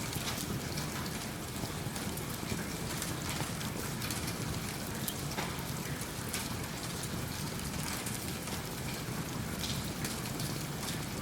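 Steady rain with scattered small crackles and pops from a wood fire in a fireplace.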